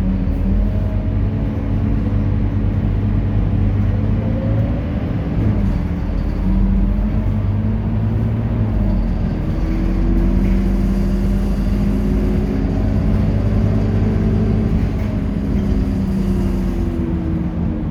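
Scania K230UB Euro 4 bus diesel engine running under way, its pitch rising and falling several times as it pulls away and changes gear, with a steady low rumble underneath.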